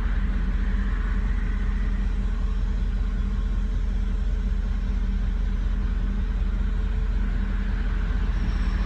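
Car engine idling high and steady at about 1800 rpm. This is a high, rough idle that throws no trouble codes and has not been cured by replacing all the sensors.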